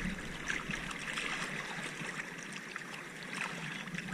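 Seawater sloshing and trickling close to the microphone as a swimmer moves through shallow sea water, a steady hiss with faint crackles.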